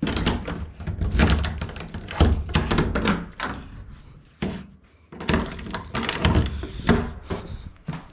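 Thuds and knocks in quick succession, like heavy footsteps and things being bumped and moved about, with a short lull a little past halfway.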